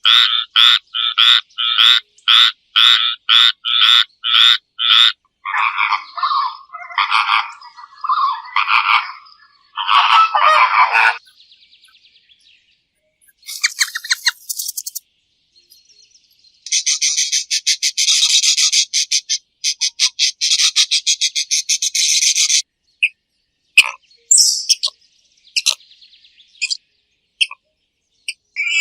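A run of animal calls in separate stretches. First comes an even series of about three short calls a second, then lower, uneven calls, then a long buzzing trill lasting about six seconds, then scattered short calls.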